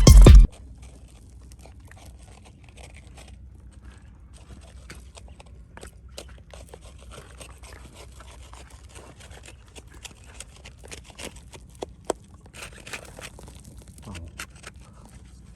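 Background music stops abruptly about half a second in. After that come faint, scattered scrapes and clicks over a low steady hiss.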